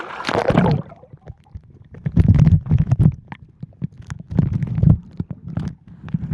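Muffled low rumbling surges of seawater sloshing against the microphone, coming in several waves, with scattered sharp clicks between them.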